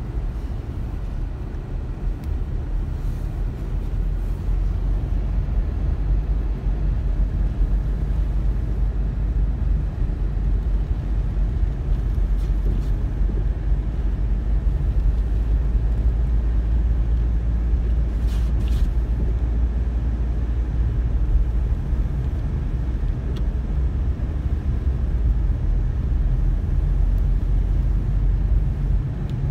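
Snowstorm wind buffeting the microphone: a steady, gusting low rumble.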